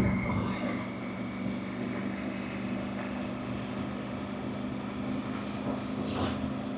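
Motorcycle engine running at a steady cruise, a constant even drone with a hiss of wind over it.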